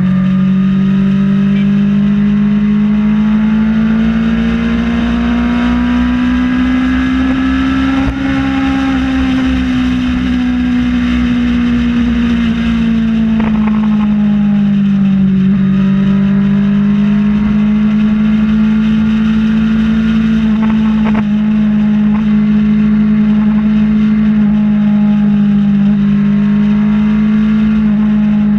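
Kawasaki Ninja ZX-6R's inline-four engine running at a steady highway cruise. Its pitch rises gently, eases back down and then holds nearly level.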